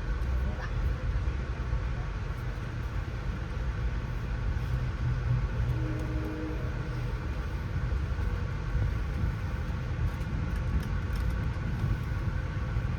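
Amtrak passenger train running along the track, a steady low rumble heard from on board.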